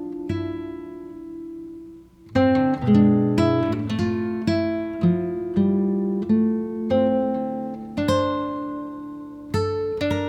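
Background music: acoustic guitar playing plucked notes and chords, one chord left ringing and dying away before the playing resumes about two seconds in.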